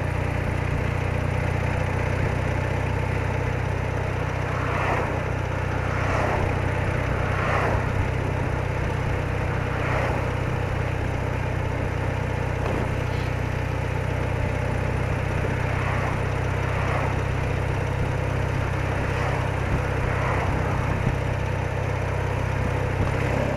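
BMW R80RT's air-cooled boxer twin running steadily under way, with wind and road noise over the microphone; it cuts off suddenly at the very end.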